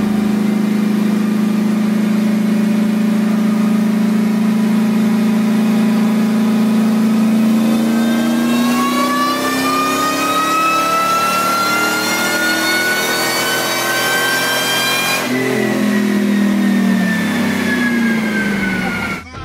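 Ford SVT Lightning's supercharged 5.4 V8 with a ported Eaton blower: a steady engine note, then a supercharger whine climbing steadily in pitch under full throttle for several seconds. About 15 s in the throttle lifts and the engine and whine fall away.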